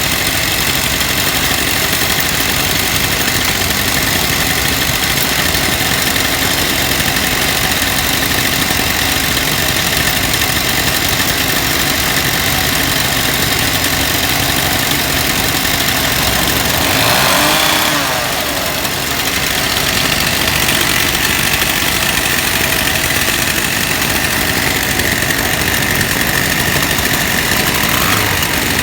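Two-stroke engine of a Husqvarna K-series power cutter running steadily at idle. About halfway through its pitch and loudness rise briefly, then drop back.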